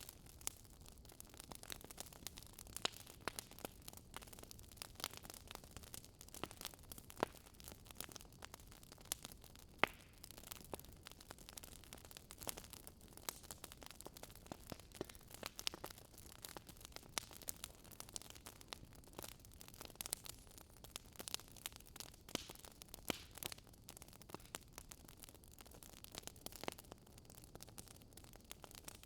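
Wood fire crackling in a fireplace, faint: irregular sharp pops and snaps over a steady low hiss.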